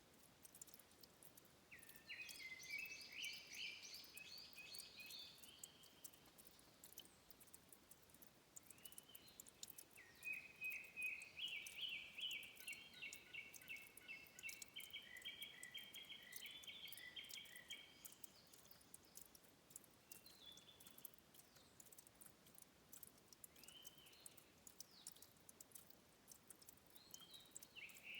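A songbird sings two long phrases of rapid repeated high notes, the first about two seconds in and the longer one from about ten seconds. Between them is a faint steady patter of fine clicks from trickling, dripping spring water.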